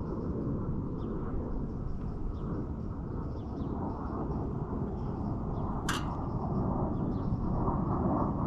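Steady low rushing noise outdoors on a rooftop, typical of wind on the microphone, with faint high chirps through it and one sharp click about six seconds in.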